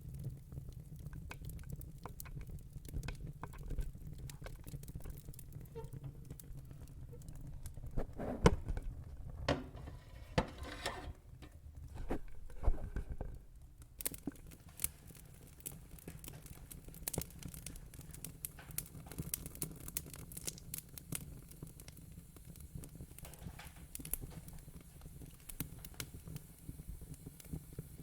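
Fire crackling: irregular small pops and snaps over a low steady rumble, busiest and loudest from about a third of the way in to near the middle.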